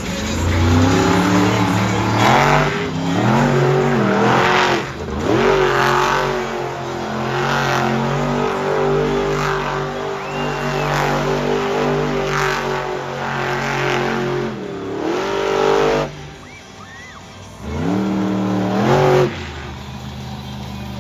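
Monster truck engine revving hard again and again, its pitch climbing and falling. About sixteen seconds in it drops to a lower idle, then it revs up sharply once more and cuts back.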